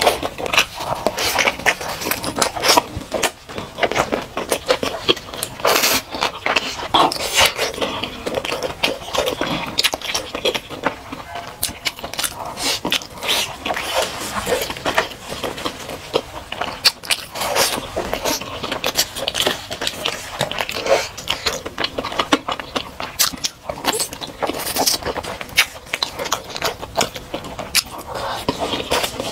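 Close-up eating sounds: chewing and lip-smacking on sauced grilled meat skewers, a steady stream of wet mouth clicks and crackles.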